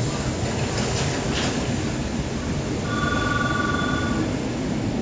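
Hanshin 9000-series electric train standing at a station platform, its equipment and the station giving a steady noise, with a brief hiss about a second in. An electronic bell rings steadily for about a second and a half in the middle.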